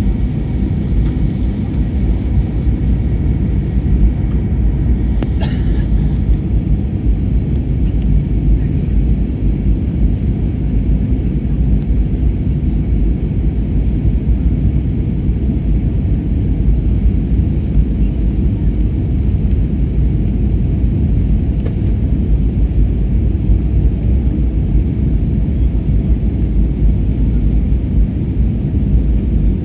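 Steady low rumble of an Airbus A321neo heard from inside the passenger cabin, with a brief faint click about five seconds in.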